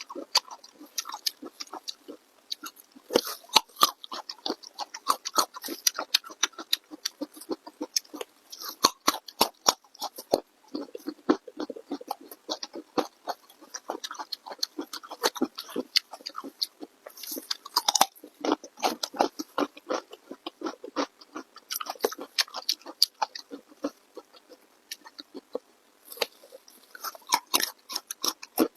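Close-miked eating sounds: a person chewing and biting food, with crunching and quick irregular mouth clicks, pausing briefly about three-quarters of the way through.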